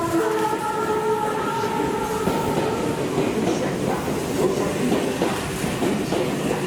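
A freight train running past on the tracks, with a steady dense clatter of wheels over the rail joints and rattling wagons. A few faint steady tones die away in the first two seconds.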